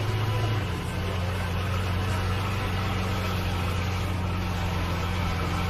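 Lamborghini Veneno's V12 idling steadily, its pitch settling slightly lower about a second in.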